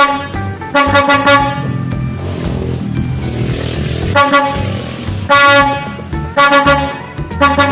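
Truck air horn sounding in repeated steady blasts, each about half a second to a second long, with a noisier low rumbling stretch between blasts in the middle.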